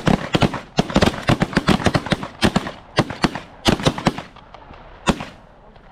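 A volley of shotgun fire from a group of goose hunters: dozens of shots, many overlapping, in a rapid ragged run, ending with a single last shot about five seconds in.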